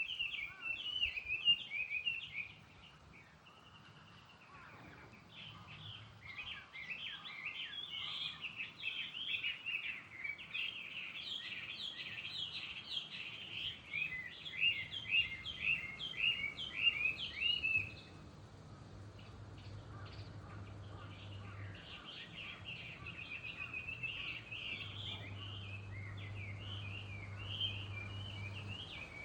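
Many small wild birds chirping and twittering together in a dense, rapid chorus, with a short lull a few seconds in and another about two-thirds of the way through. A faint low hum sits underneath in the later part.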